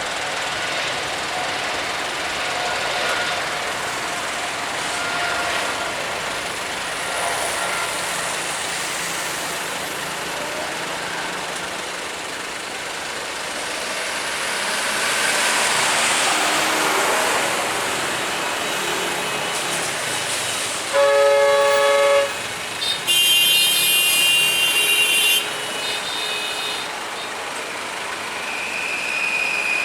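Steady outdoor vehicle noise that swells and fades once. A vehicle horn then sounds twice: a short blast, then a longer, brighter one that stops abruptly.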